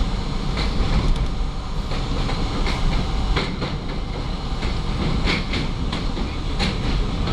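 R32 subway train running at speed, with a steady rumble and its wheels clicking over rail joints a few times a second.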